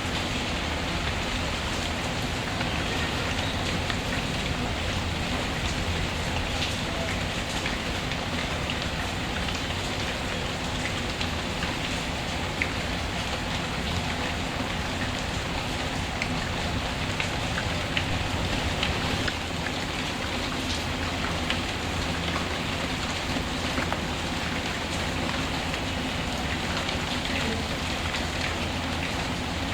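Steady rain falling, with scattered small crackles and pops from a wood fire.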